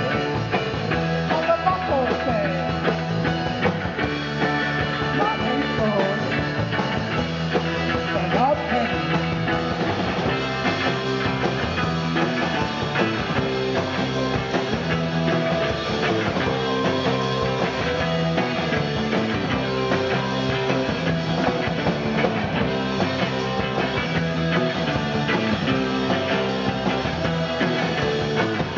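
A rock band playing live, loud and steady, in a stretch without singing. Guitar notes bend and slide in the first several seconds.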